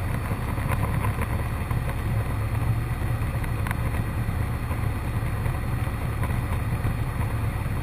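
Cessna 152's four-cylinder Lycoming engine and propeller droning steadily in cruise flight, heard inside the cockpit.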